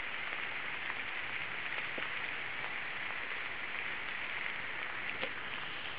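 Heavy thunderstorm downpour: rain falling hard and steadily as an even hiss, with a few faint ticks of drops.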